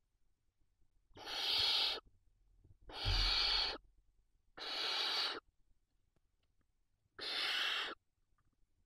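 Barn owl chicks giving four rasping hisses, each just under a second long: the food-begging 'snore' call of owlets in the nest.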